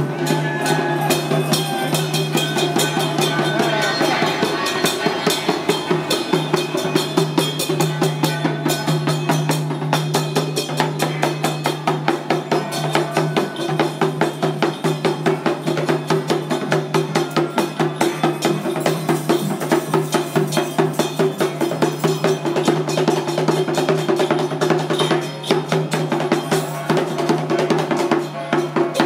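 Temple-festival percussion band playing: fast, steady drumming and rapid struck percussion, over a steady low hum.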